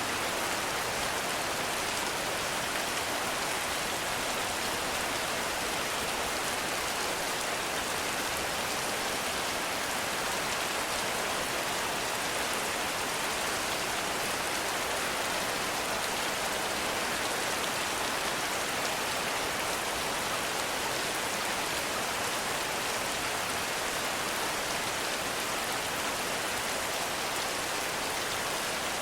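Heavy rain falling steadily, an even hiss of dense drops with no breaks or single standout drops.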